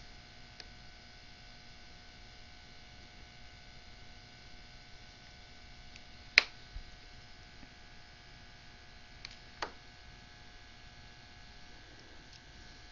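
Low steady hum with a few sharp clicks, the loudest about six seconds in and two smaller ones near the end, from an X-Acto knife blade working at the edge of an iPod Touch's glass.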